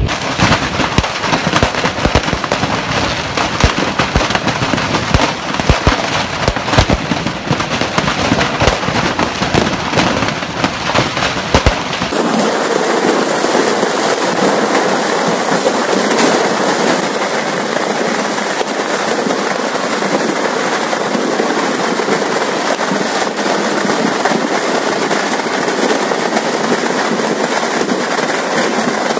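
Stock of fireworks going off in a warehouse fire: a dense, unbroken run of bangs and crackling pops. About twelve seconds in the recording changes, and the pops merge into a thicker, steadier crackle.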